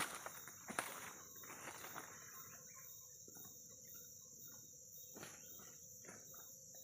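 Faint forest ambience: a steady high-pitched insect drone with short bird chirps, and a few sharp rustles or knocks in the first two seconds.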